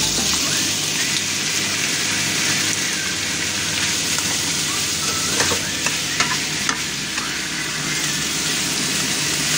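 Marinated pork sizzling steadily in hot oil in a wok with onion and garlic, stirred with a wooden spatula that scrapes the pan a few times around the middle.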